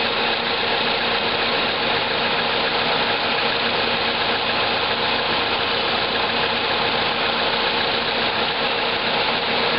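Subaru Impreza's flat-four engine idling steadily, with the air conditioning running while the system takes a refrigerant recharge.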